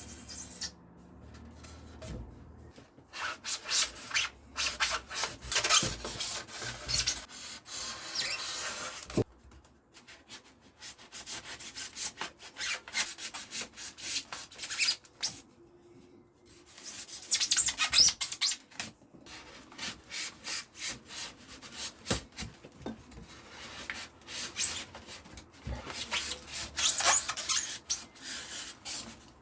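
Hand sanding of a polystyrene body, quick repeated rubbing strokes in runs with short pauses.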